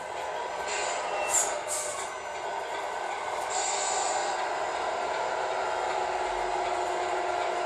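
Steady whir of the small electric motors and gearing of radio-controlled models at work, with a few short hissing bursts in the first half.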